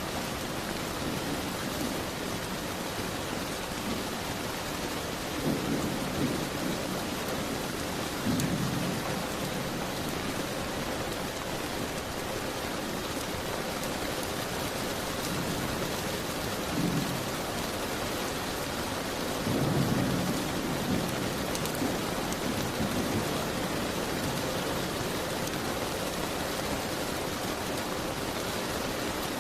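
Steady rain falling, a constant hiss. Several short low rumbles rise over it: two about six and eight seconds in, and two more about seventeen and twenty seconds in, the last the loudest.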